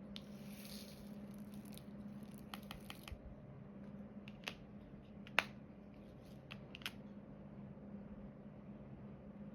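Small sharp clicks and taps of diamond painting work, a drill pen picking up resin drills and pressing them onto the canvas, scattered irregularly with the loudest tap about five seconds in. A short rustle near the start and a faint steady hum underneath.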